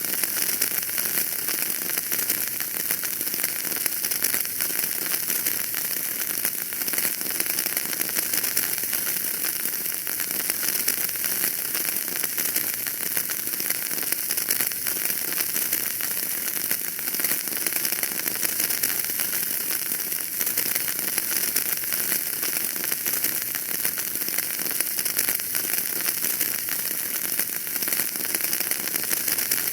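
Wood fire crackling in a fireplace: a steady, dense stream of small pops and crackles over a soft hiss.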